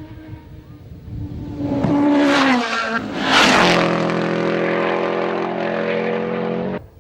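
Rally car approaching fast and passing close, its engine revving hard: the note climbs, dips and climbs again, loudest about two and three and a half seconds in. It then holds a steady high note and cuts off abruptly near the end.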